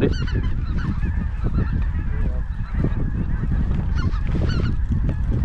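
Wild geese calling: many short overlapping honks and yelps, over a steady low rumble of wind on the microphone.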